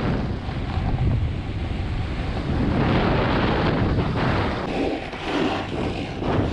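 Wind buffeting an action camera's microphone during a snowboard run: a steady rushing noise with a heavy low rumble.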